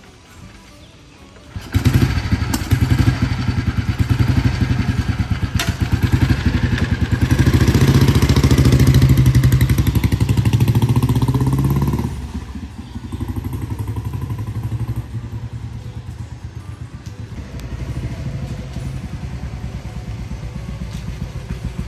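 1954 Royal Enfield G2 Bullet's single-cylinder four-stroke engine running loud with an even pulsing beat, starting abruptly about two seconds in. The revs rise and hold high, then drop back about halfway through to a slower, steady beat.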